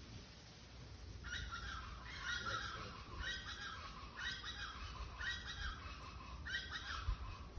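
A bird calling over and over, a short phrase of a few notes about once a second, starting about a second in, over a low wind rumble.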